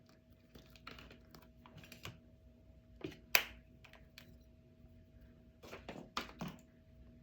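Scattered light clicks and taps of small objects being handled, the sharpest about three and a half seconds in and a quick cluster near the end, over a faint steady hum.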